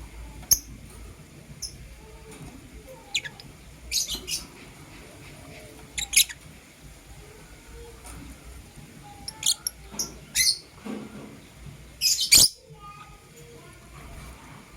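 Lovebirds giving short, sharp, high-pitched chirps, singly and in quick clusters of two or three, at irregular intervals. The loudest cluster comes near the end.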